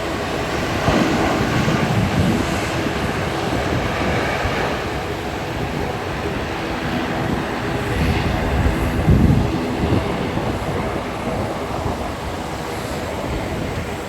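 Aircraft engine noise running steadily, with strong wind buffeting the phone's microphone in low rumbling gusts about a second in and again around eight to ten seconds in.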